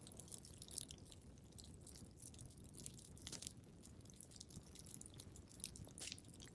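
Wood fire crackling quietly, with frequent small irregular pops over a low steady rumble, and one sharper pop about a second in.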